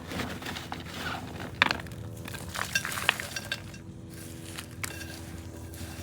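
Chunky orchid potting mix with charcoal pieces and perlite rattling, crunching and clicking as it is handled and worked into a pot, busiest in the first half with one sharp click near the middle of that, then only a few light ticks.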